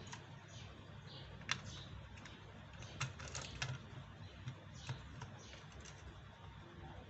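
Scattered sharp clicks and taps of multimeter test probes being handled and pressed onto the transformer's connector terminals, over a low background hum.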